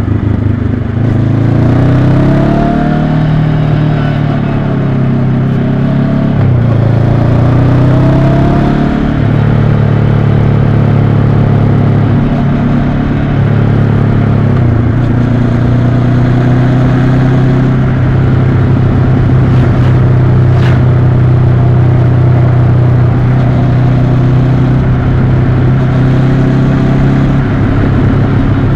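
2022 Honda CB500X's parallel-twin engine running on the move. The revs rise and fall and drop in steps through the first half, then hold steady, over rushing wind noise. A brief click sounds a little past the middle.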